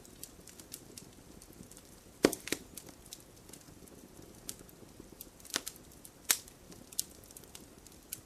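Campfire crackling: irregular sharp pops and snaps of burning wood over a soft low hiss, the loudest pops about two seconds in and again around five and six seconds in.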